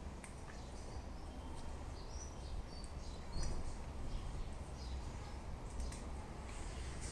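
Birds chirping in short high calls over a steady low background rumble, with a few sharp clicks.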